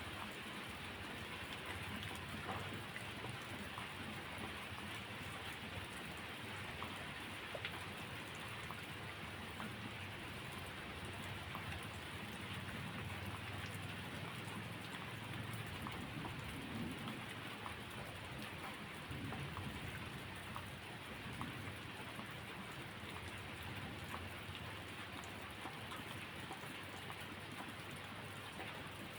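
Steady rainfall, an even hiss of rain on surfaces with scattered faint ticks of drops.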